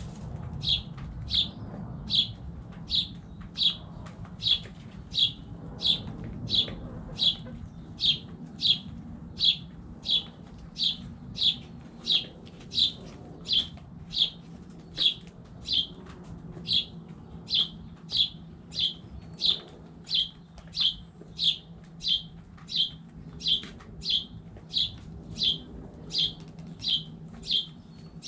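A single bird chirping over and over at a very even pace, about four short high chirps every three seconds, over a low steady hum.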